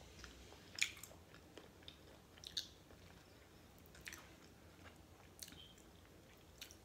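Quiet chewing and biting on a crispy oven-baked chicken wing, with about five short, sharp crunches spread through.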